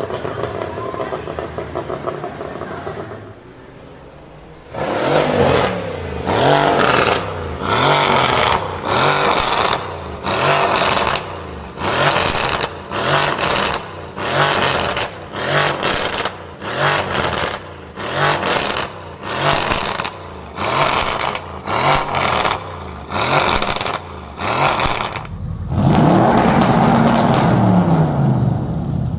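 A performance car's engine revved in short sharp throttle blips, roughly one a second, about twenty in a row, each rising and falling quickly in pitch. Near the end the engine is held at high revs for a few seconds.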